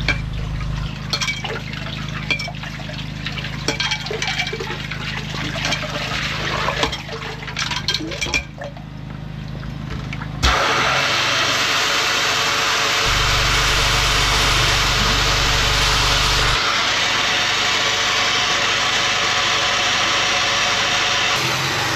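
Drainage unit's engine running under scattered knocks and clatter, then about halfway a sudden loud, steady rush of water and air starts and keeps going.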